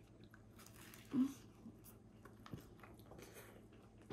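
A person biting into and chewing a fried crappie sandwich with a crumbled-pretzel coating, soft crunching and mouth noises, with a short hum of the voice about a second in.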